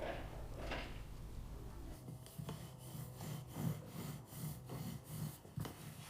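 Repeated scraping strokes, about two to three a second, with a low hum that stops about two seconds in.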